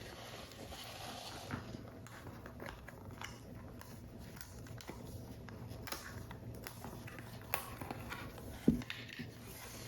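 Paper model pieces being handled at a work surface: faint paper rustling with small scattered ticks and taps, and one sharper knock near the end.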